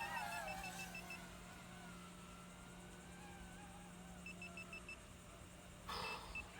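Rapid electronic beeping in short bursts of about six or seven beeps a second, one high pitch, heard at the start, again after about four seconds and twice near the end, over a faint whine that rises and falls, with a short rushing burst about six seconds in.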